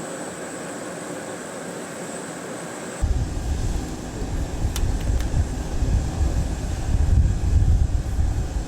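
Steady machinery noise of an airport apron with a thin high whine. About three seconds in, a heavy low rumble of wind on the microphone joins and the level jumps. Two brief clicks come near the middle.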